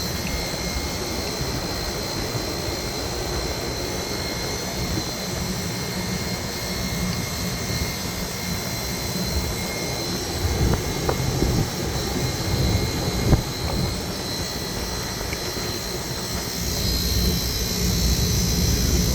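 Newly replaced single-phase 220 V, 3-horsepower refrigeration condensing unit running on its test run: a steady fan and compressor drone with a faint high whine. A sharp knock comes about two-thirds through, and the sound grows louder near the end.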